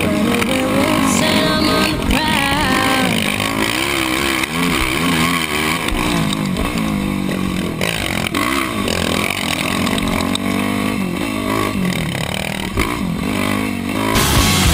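Single-cylinder four-stroke Yamaha YFZ450R quad engine with an aftermarket Rossier exhaust, revved up and down over and over as it is ridden hard, its pitch rising and falling. Rock music cuts in near the end.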